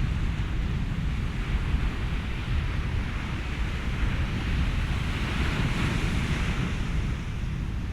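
Ocean waves mixed with wind and white noise: a steady low rumble under a hiss that swells and eases again, loudest about six seconds in, like a wave washing in.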